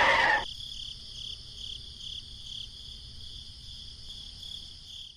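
Insect chirping, a high pulsing trill of about three to four pulses a second. It follows a motor sound that cuts off about half a second in.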